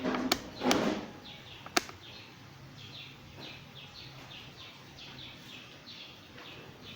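Two short rustling or scraping noises and a sharp click in the first two seconds. After that a small bird chirps over and over in the background, about two short falling chirps a second.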